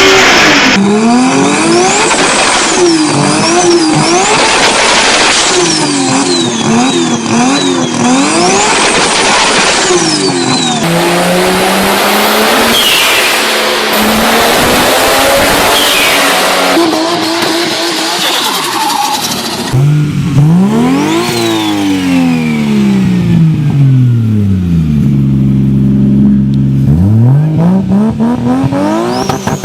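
Turbocharged car engines, one short clip after another, revving up and dropping back again and again. A high turbo whistle rises and falls with the revs, and the chatter and pops of turbo flutter and antilag come off throttle. Near the end one engine holds a steady high rev for a few seconds.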